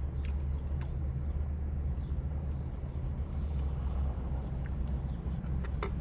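Steady low rumble, with a few small clicks and taps from eating, one each about a third of a second and just under a second in, and one near the end.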